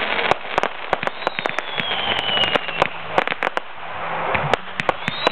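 Fireworks display going off: rapid sharp cracks and pops over a dense crackle, with a whistle that slides slowly down in pitch about a second in.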